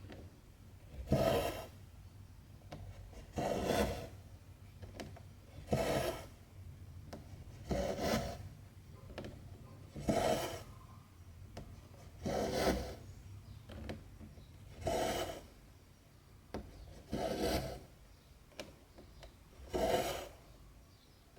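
Two strands of cotton embroidery thread pulled through 14-count cross-stitch fabric, a rasping swish about every two seconds, nine pulls in all, with faint ticks of the needle between them.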